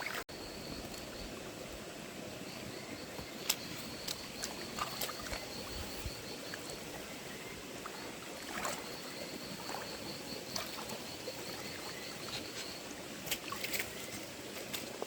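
Steady wash of a shallow forest stream, with an insect chirping in a fast, even, high-pitched pulse that comes and goes, and a few small clicks and splashes from wading and handling stones.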